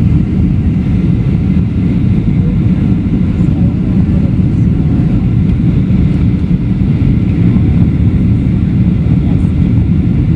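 Loud, steady low rumble of a Boeing 737-700 heard from inside the cabin during landing, its CFM56-7B engines and airframe noise filling the cabin.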